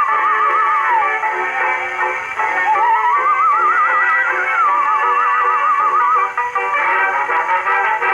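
Victor type 3 horn gramophone playing a record through a rebuilt Exhibition reproducer. A high melody line with strong vibrato runs over accompanying notes, dipping about a second in and sliding upward around three seconds in. The tone is narrow and mid-range, with little bass or treble.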